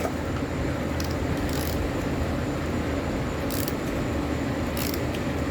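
A few brief metallic scrapes from hand tools working on a threaded fastener on a catalytic converter, over a steady workshop hum. The fastener's threads may be damaged.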